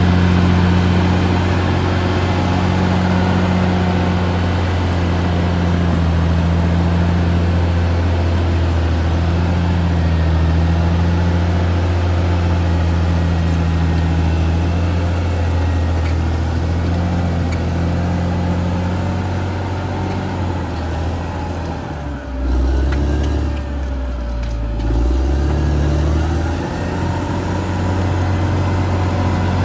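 Caterpillar D6R XL bulldozer's diesel engine running steadily under work. Near the end its note drops lower for a few seconds, then comes back up.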